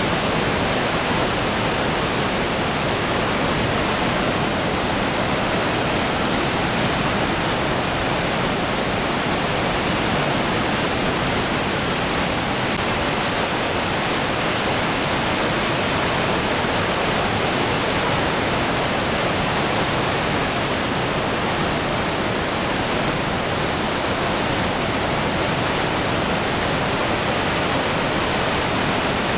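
Goðafoss waterfall's steady, loud roar of falling water, unchanging throughout.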